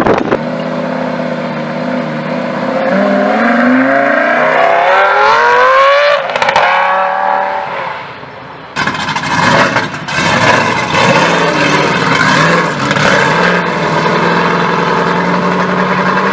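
Performance car engines revving and accelerating hard. One engine's pitch climbs steadily for a few seconds and then falls away. After a brief lull, a loud engine comes in suddenly and holds a steady high-revving note with small dips.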